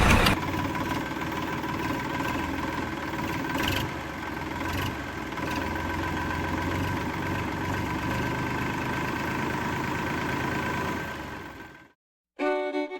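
Small motor of a home-made toy tractor running steadily, a hum with a few fixed tones, which fades out about eleven and a half seconds in. Fiddle music starts just before the end.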